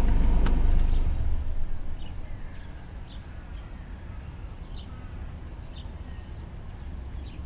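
Outdoor ambience. A low rumble fades away over the first two seconds, then short birds' chirps come and go against a quiet background.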